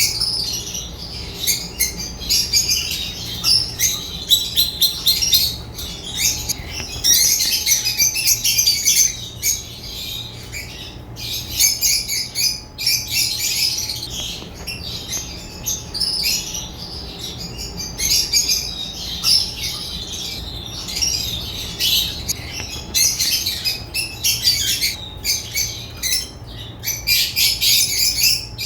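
Lovebirds chirping and squawking continuously in a rapid, high-pitched chatter of overlapping calls.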